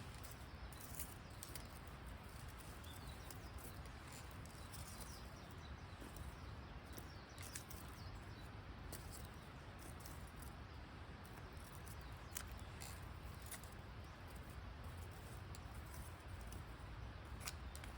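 Wood campfire crackling softly, with irregular sharp pops scattered throughout.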